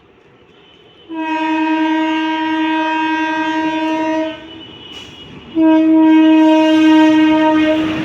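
Locomotive horn sounding two long, steady blasts of about three seconds each, with a short gap between them.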